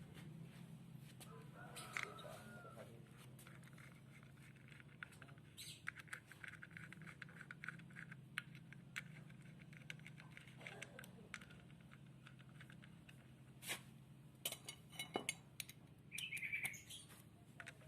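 Birds chirping in the background over a low steady hum, with scattered faint clicks and knocks, a cluster of sharper clicks and one louder chirp near the end.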